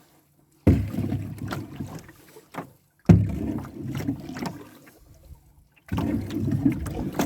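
Canoe paddling: three paddle strokes through the water, each starting sharply and fading over about two seconds.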